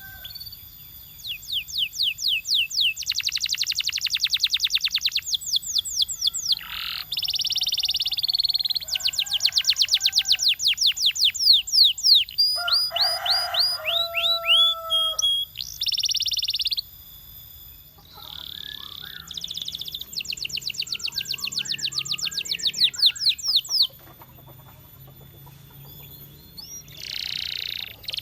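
Canary singing a long song of rapid trills and rolling tours, changing phrase every second or two with brief breaks between phrases.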